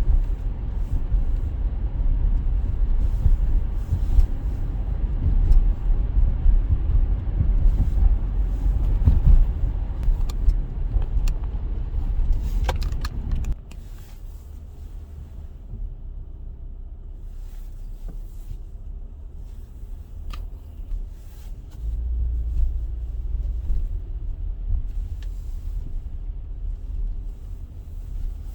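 Car driving, a steady low rumble of engine and road noise heard from inside the cabin; about halfway through it drops abruptly to a much quieter low hum, as the car slows.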